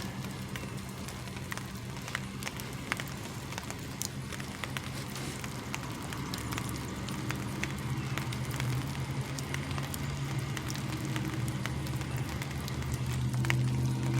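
Semi truck's diesel engine running at a standstill: a steady low drone with a fine rapid clatter of ticks, growing a little louder near the end.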